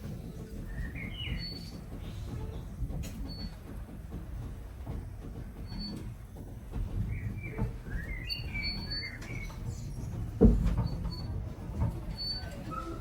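Small birds chirping repeatedly over the low, steady rumble of a heritage steam train, with a single sharp knock about ten seconds in.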